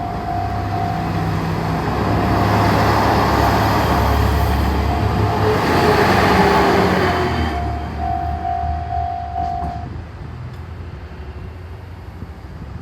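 A diesel railcar passes over a Japanese level crossing, its rumble swelling to a peak and fading over several seconds. Through it the crossing's electronic warning bell rings a steady repeating tone, then stops about ten seconds in as the crossing clears.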